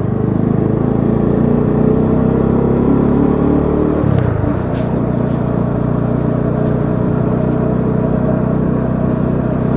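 Bajaj Dominar 400's single-cylinder engine running under way through traffic. Its note climbs for about four seconds, drops sharply around four seconds in as the throttle eases or a gear changes, then holds steady.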